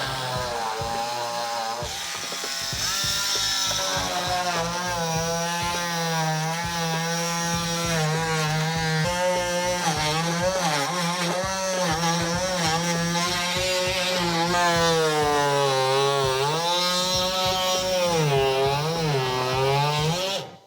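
Oscillating multi-tool cutting through the plastic wall of an AdBlue tank, a noisy buzzing whose pitch wavers up and down as the blade bites and eases. It stops abruptly at the end.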